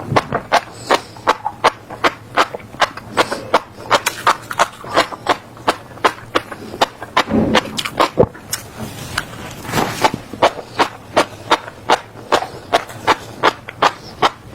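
Close-miked chewing of crunchy seeds: sharp, crisp crunches at about three a second, with a couple of softer, longer crunches around seven and ten seconds in.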